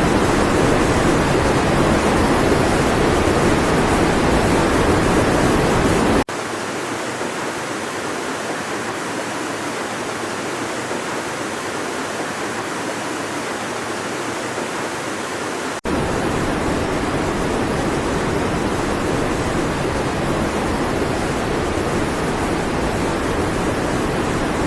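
Steady rushing of water with no speech. It drops abruptly to a quieter, thinner rush about six seconds in and jumps back to the louder rush about sixteen seconds in.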